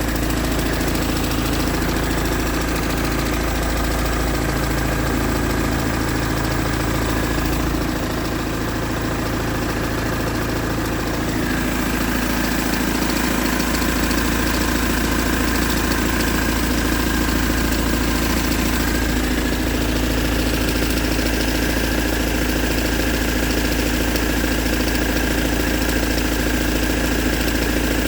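BMW M47 four-cylinder diesel engine idling steadily, with a constant high whine in the sound. This is the noise the owner is filming as a problem.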